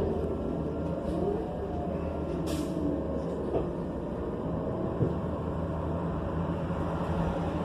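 Inside the cabin of a New Flyer XN40 bus, its Cummins Westport ISL G natural-gas engine running with a steady low drone. A short hiss of air comes about two and a half seconds in, and a single sharp knock near five seconds.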